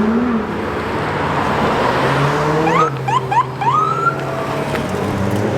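Police car siren giving several quick rising chirps about three seconds in, then one longer rising whoop, over the steady running of car engines.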